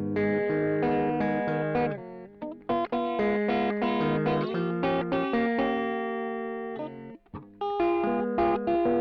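Electric guitar played through a Caline 'British Sound' overdrive pedal set with all knobs at noon, giving a driven tone. It plays a run of chords and single notes, with short breaks about two and a half seconds in and again about seven seconds in.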